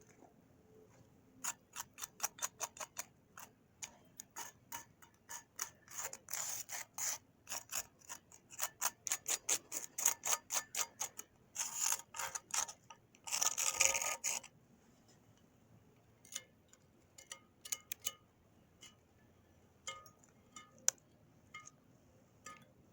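Hand tools working on metal: runs of rapid, sharp mechanical clicking for about the first fourteen seconds, with two short rasping scrapes near the end of that stretch, then scattered single clicks.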